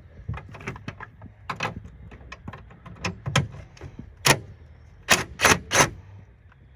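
Irregular clicks and light knocks from hands working parts and tools in a truck's engine bay, with a sharp knock about four seconds in and three louder knocks in quick succession near the end.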